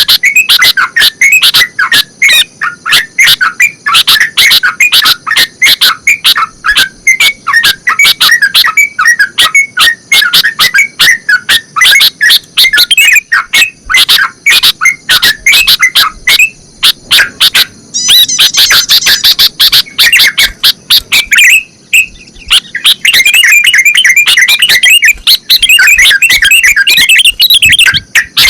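Bulbuls singing loudly and without pause: a dense run of quick, repeated chirping whistles, breaking about two-thirds in into a higher, faster twitter.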